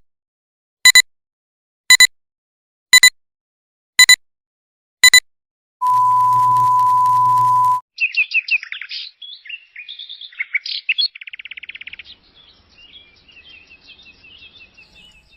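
Six short beeps about a second apart, then a steady high tone for about two seconds, then birds chirping and trilling.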